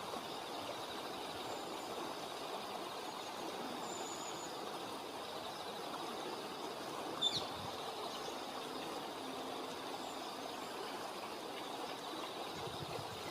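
Steady rush of river water, with one short, sharp bird call falling in pitch about seven seconds in.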